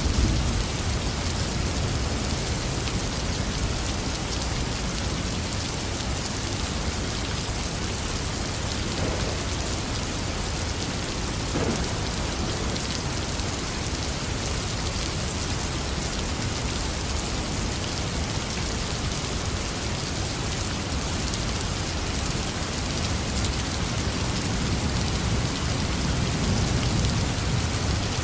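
Heavy rain falling steadily, with a low rumble of thunder underneath that swells at the start and again near the end.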